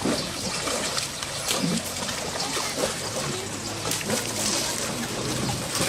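Water splashing and trickling irregularly, stirred by two baby elephants playing in it.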